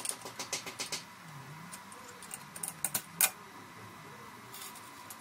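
A quick run of light, sharp clicks in the first second, then scattered clicks and taps, the sharpest about three seconds in, over a faint low wavering hum.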